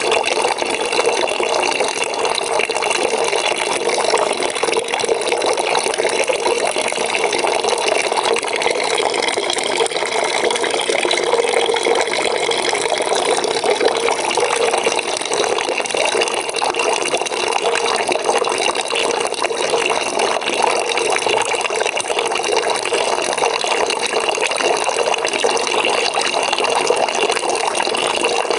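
Water pouring steadily into a bucket as it fills, an even rushing splash that does not change.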